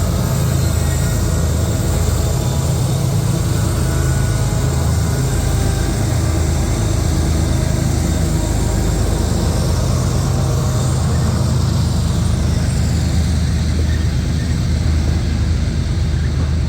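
Loaded coal train rolling past behind GE diesel locomotives: a steady low rumble of engines and freight cars with no pause or change.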